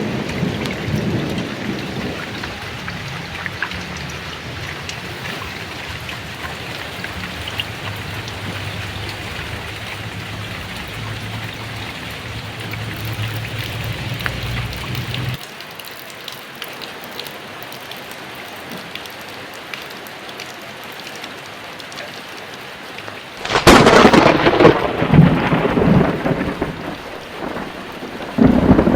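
Heavy rain falling steadily through a thunderstorm. A low rumble of thunder fades early and then cuts off suddenly about halfway. Near the end a sharp, loud thunderclap breaks out and rolls on in heavy rumbling, with another loud peal just before the end.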